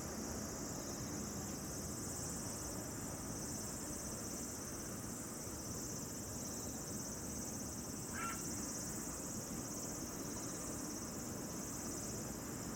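Steady, high-pitched insect chorus of crickets over a low, even background rumble, with one brief chirp about eight seconds in.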